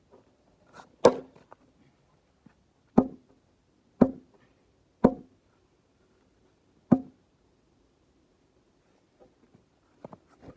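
A ball knocking against a hard surface: five sharp, separate knocks about one to two seconds apart, then quiet apart from a few faint clicks near the end.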